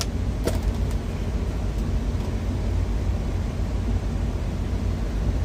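Steady low rumble with a hiss above it, inside a truck cab, from the truck's running machinery. There is a single short click about half a second in.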